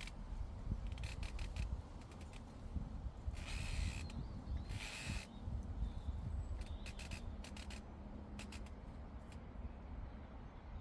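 Llama grazing close by: crisp snips and tearing of grass cropped by its teeth, with two longer rustling bursts about three and a half and five seconds in, over a low wind rumble on the microphone.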